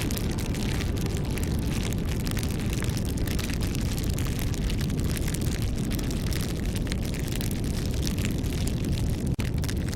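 Bonfire burning, with a steady low rumble and many small crackles and pops of the burning wood. The sound cuts out for an instant near the end.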